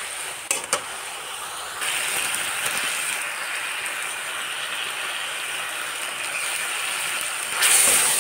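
Spinach, potatoes and peas sizzling as they fry in mustard oil in a kadhai while a spatula stirs them, with a couple of light clicks of the spatula on the pan about half a second in. The sizzle gets louder about two seconds in and again near the end.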